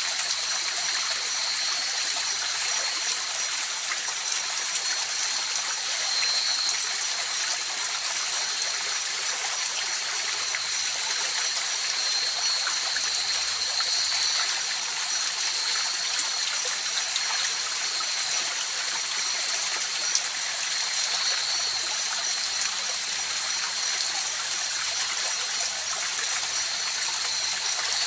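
River water rushing and trickling steadily, a constant hiss-like flow, with a thin steady high-pitched tone running over it.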